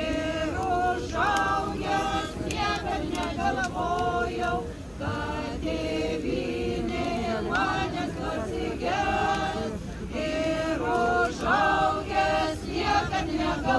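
A group of men and women singing a Lithuanian song together in Lithuanian.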